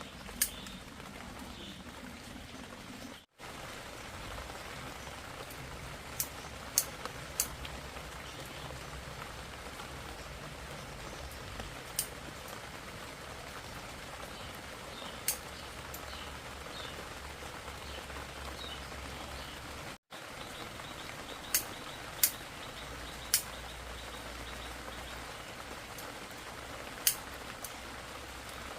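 Steady rain falling, an even hiss, with occasional sharp ticks at irregular intervals.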